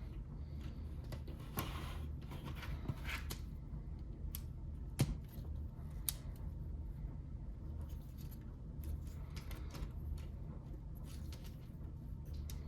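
Plastic Lego pieces being handled: scattered small clicks and short rustles, with one sharper click about five seconds in, over a low steady hum.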